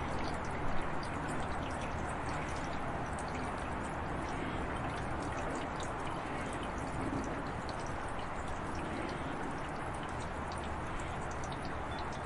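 Heavy rain falling: a steady hiss of water with many separate drops ticking on surfaces, and a brief louder moment under a second in.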